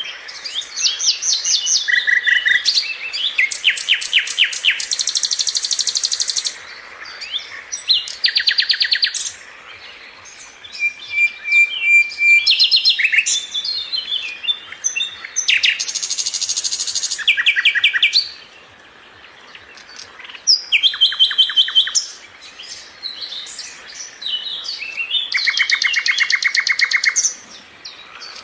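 Sikatan londo flycatcher singing: high-pitched phrases of fast, evenly repeated chirps and trills, each lasting one to three seconds, with short pauses between them.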